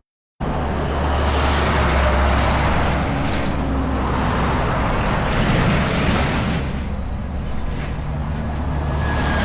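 Strong wind buffeting the microphone, with the steady noise of heavy trucks driving past on the road. It starts abruptly just under half a second in.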